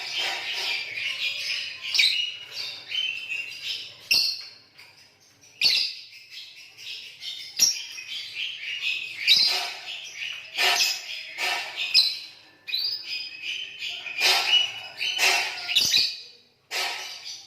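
Lovebirds chirping in a fast, dense run of shrill high calls, broken by a couple of short pauses.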